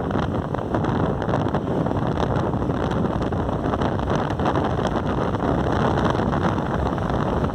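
Wind rushing over the microphone of a moving motorcycle, a steady loud buffeting roar.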